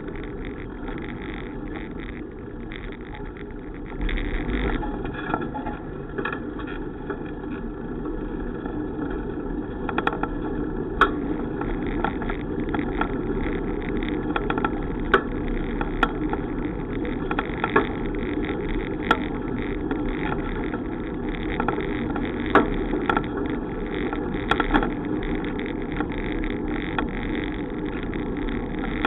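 Riding noise of a bicycle on the move: a steady rushing rumble with irregular sharp clicks and rattles. It gets louder about four seconds in.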